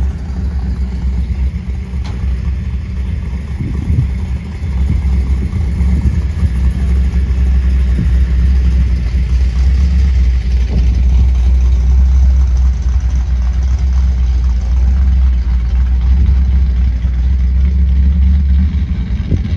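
Car engine running steadily at idle, a loud, steady low rumble.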